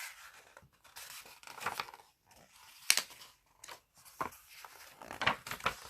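Paper rustling and brushing as the pages of a picture book are handled and turned, with one sharp click about three seconds in.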